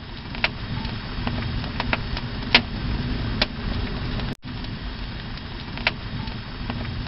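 A fire burning: a steady rushing noise broken by irregular sharp crackles and pops. The sound drops out for an instant about four seconds in.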